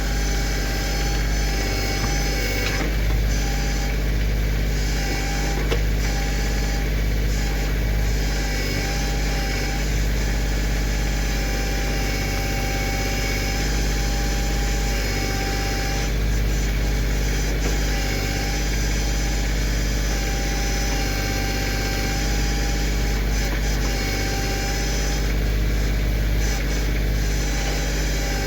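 Kioti CK2610 compact tractor's three-cylinder diesel engine running steadily under the backhoe.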